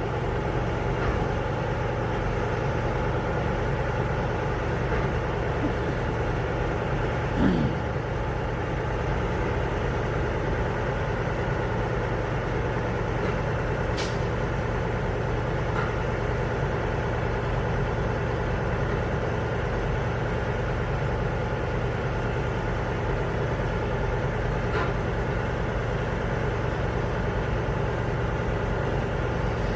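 A vehicle engine idling steadily with a constant low hum, broken only by a short faint sound about seven seconds in and a sharp click about halfway through.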